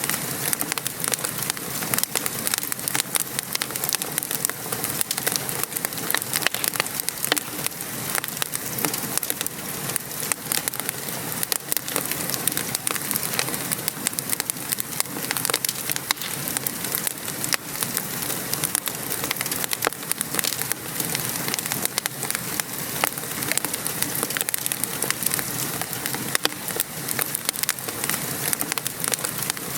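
Wood fire crackling in a fireplace, with frequent sharp pops and snaps, over a steady hiss of rain falling.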